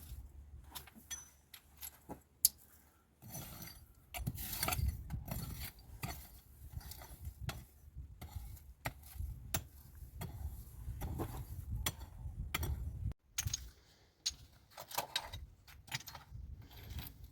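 Irregular clicks and knocks of hard objects being handled, over a low rumbling noise that cuts off suddenly about thirteen seconds in.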